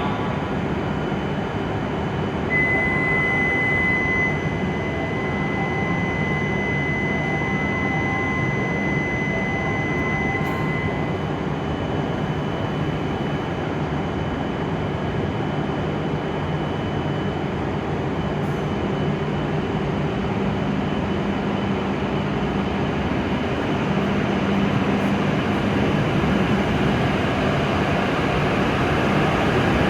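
E7 series Shinkansen train running at the platform: a steady rumble of motors and wheels that grows louder over the last few seconds as it moves off, with a steady high tone held for about eight seconds early on.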